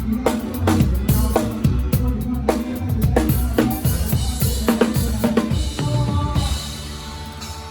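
Live drum kit playing with the band: kick drum, snare and rimshots over the band's music. The drumming thins out about six and a half seconds in, leaving quieter held notes from the band.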